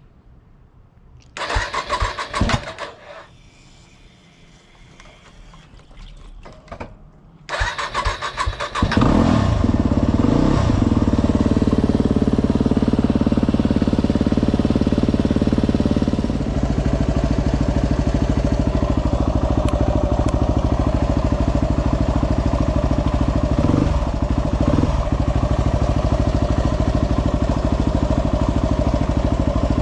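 Yamaha WR250R's single-cylinder engine on its first start after four months standing: the electric starter cranks briefly without it firing, cranks again about six seconds later and the engine catches about nine seconds in. It then runs steadily, dropping slightly in level around sixteen seconds in.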